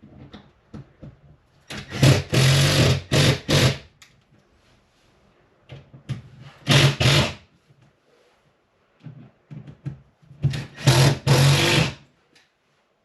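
Power drill driving screws in short trigger bursts: a run of several bursts about two seconds in, a single short burst near the middle, and another run near the end.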